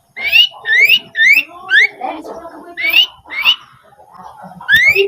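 A songbird singing a rapid series of short, rising whistled notes, about two a second, in runs broken by brief pauses, with lower chattering between them.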